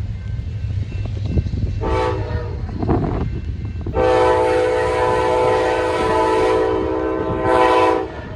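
Locomotive air horn sounding a short blast about two seconds in, then a long blast from about four seconds in that stops near the end, several notes sounding together as a chord, over the steady low rumble of a passing train.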